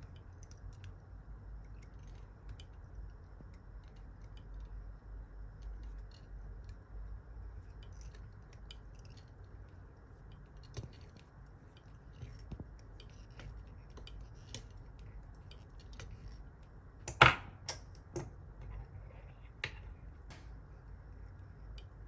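Quiet fly-tying handling sounds at a vise: faint scattered ticks and taps of tools and material. One sharp click about three-quarters of the way through is the loudest sound, followed by a few smaller clicks.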